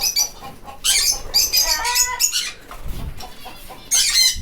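Caged aviary birds calling in several short bursts of chirps and squawks.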